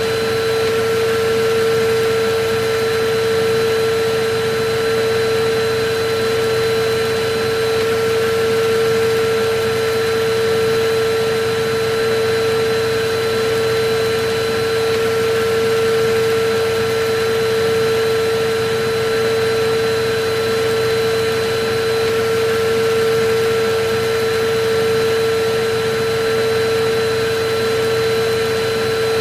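Electric vacuum cleaner running steadily: a constant whine over an even rushing hiss, holding the same pitch and level throughout.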